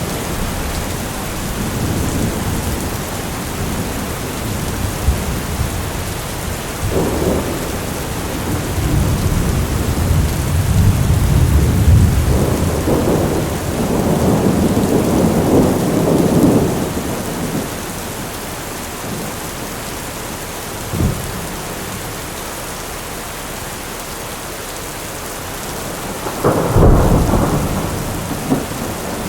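Heavy rain falling steadily with rolling thunder: a long low rumble builds and fades through the middle, a short sharp crack comes about two-thirds of the way in, and a louder thunderclap rolls out near the end.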